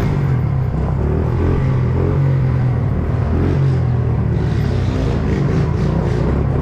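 Honda CRF70 pit bike's small single-cylinder four-stroke engine running steadily while being ridden.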